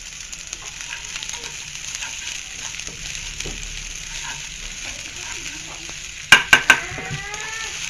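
Sliced garlic and shallots sizzling in hot oil in a frying pan while a spatula stirs and scrapes them around, the aromatics being sautéed until fragrant. About six seconds in come three sharp clacks close together, the loudest sounds.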